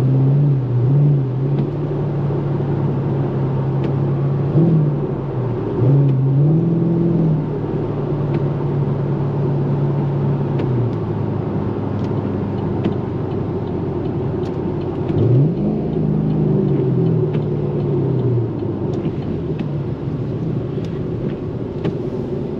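2013 Camaro SS 6.2-litre V8 driven gently at part throttle, its steady engine note rising and falling briefly a few times, around five, six and sixteen seconds in. A steady hiss of tyres on wet road runs underneath.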